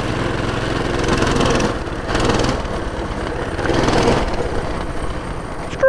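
Small single-cylinder pull-start engine of a Coleman minibike running while riding an off-road trail, its level swelling and easing a few times as the throttle changes.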